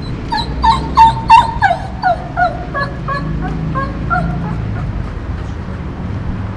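A dog whining: a quick run of short, high whimpers, several a second, loudest about a second in and fading away after about four seconds.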